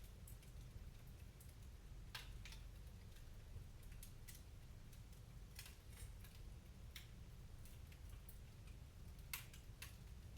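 Fireplace fire crackling faintly: scattered sharp pops and snaps at irregular moments over a low steady rumble.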